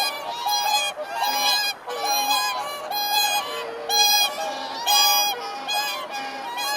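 Geese honking: a steady series of short, nasal calls, sometimes overlapping, about one or two a second.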